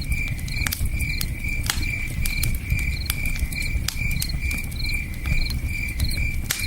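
Crickets chirping in a steady pulse, about two to three chirps a second, with a second, higher insect trilling alongside, over campfire crackling with scattered sharp pops and a low steady rush of river water.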